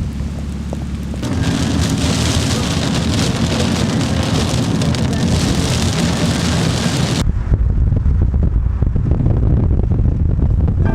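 Rain falling steadily with a heavy low rumble of wind buffeting the microphone. About seven seconds in, the rain hiss cuts off abruptly and only the low wind rumble is left.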